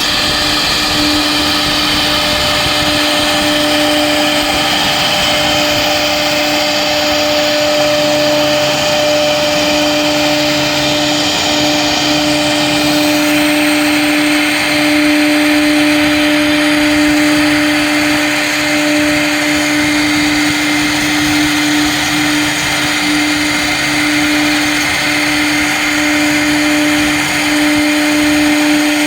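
CNC router spindle running at a steady pitch while its bit cuts 10 mm ESD sheet, the cutting noise laid over the spindle's tone. A lower hum joins about eight seconds in.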